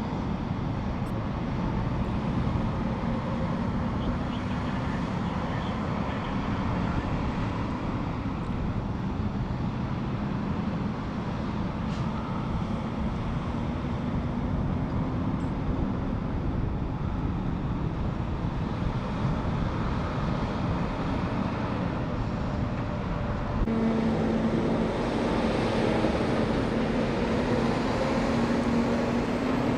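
Steady vehicle engine and roadway traffic noise with a low hum. Roughly three-quarters of the way through, a louder engine tone joins and holds to the end.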